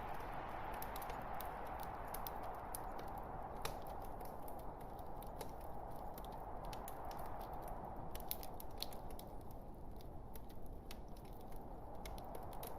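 Log fire crackling: frequent sharp pops and snaps over a steady hiss of burning wood.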